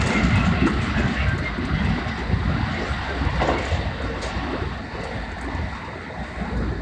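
JR 223-series electric train running on the line, heard from inside the car: a steady rumble of wheels on rail and motor noise that grows gradually quieter over the few seconds.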